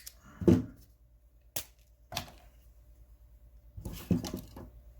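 Hand ratchets being handled: two sharp clicks, about a second and a half apart, and a few knocks and rattles of tools being picked up and moved.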